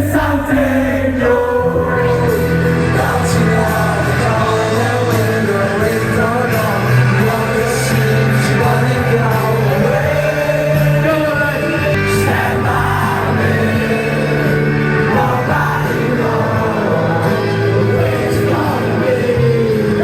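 Live rock band playing: a singer's voice over electric guitar and bass, continuous and loud.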